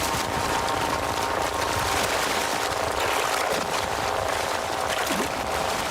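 Heavy splashing and churning of river water, a dense rushing noise full of quick splashes, as animals thrash in the river.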